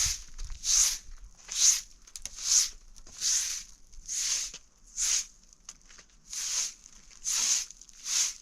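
Footsteps crunching through snow at a steady walking pace, about ten even steps.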